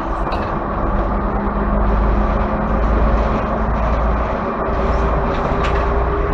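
Class 117 diesel multiple unit on the move, its diesel engine drone steady under wheel-on-rail noise, heard from inside the rear of the train.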